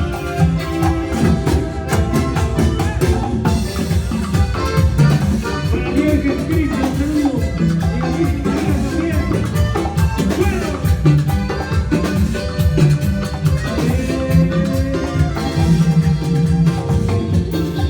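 Band playing Latin dance music in an instrumental passage without vocals: a steady, even percussion beat under a bass line and a bright melodic instrument.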